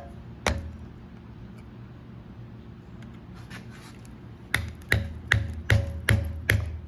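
A hammer tapping a screwdriver to drive a press-fit seal's metal backer out of a hydraulic cylinder: one sharp metal knock, then after a pause a steady run of seven quick knocks, about two and a half a second, each with a short metallic ring.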